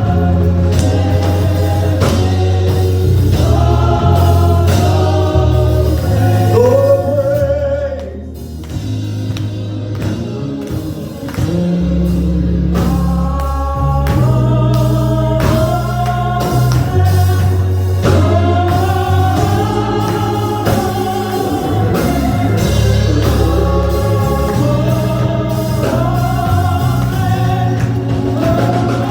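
Gospel song sung by voices over instrumental backing with a heavy bass line and a steady beat. The music thins briefly about eight seconds in.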